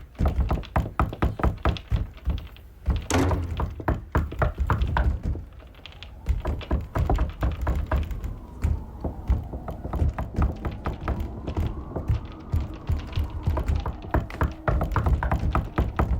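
Rapid, heavy knocking and banging on a door, several blows a second, with a faint wavering music tone rising and falling under it from about six seconds in.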